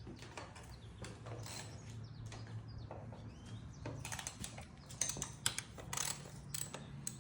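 Faint, scattered metallic clicks and clinks of hand tools working on a dirt bike engine during a top-end rebuild, over a steady low hum.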